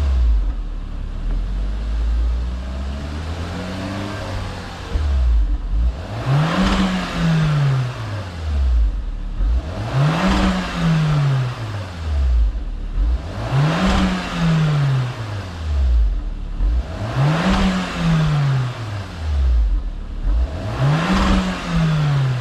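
2019 Toyota C-HR 1.2's turbocharged four-cylinder engine revved repeatedly through an aftermarket exhaust with a transverse rear muffler and single left and right outlets. After smaller, lower revs in the first few seconds, it rises and falls in pitch five times, about every three and a half seconds.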